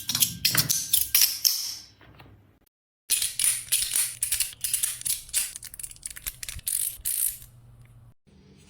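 Metal fidget toy being worked by hand, giving rapid, irregular mechanical clicks like a ratchet. The clicking comes in two runs, broken by a short silence about two and a half seconds in, and dies away near the end.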